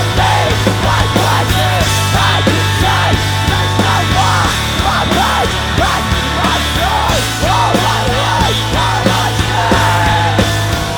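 Live rock band playing loud, distorted music, with a held low bass note under short rising-and-falling lead lines.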